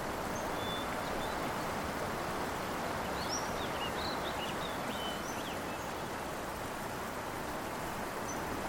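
Steady outdoor hiss of open-country ambience, with a few faint, high, short bird chirps scattered through it, most of them in the middle.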